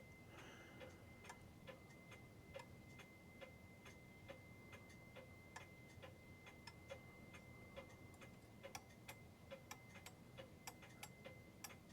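New England Clock Company pendulum clock movement ticking faintly, about two ticks a second. The clock is not yet quite in beat, so its tick and tock are not yet even.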